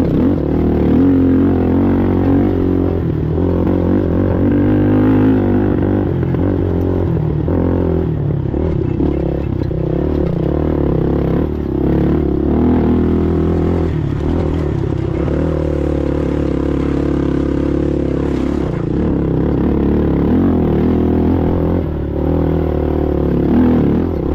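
Racing ATV engine running hard and steady at speed, its pitch wavering a little with the throttle, with scattered knocks and rattles over it.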